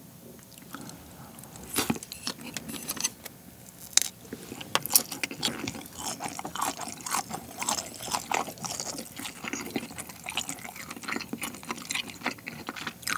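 Close-miked chewing of a shrimp nigiri sushi: wet, sticky mouth sounds with many small smacks and clicks, starting about two seconds in.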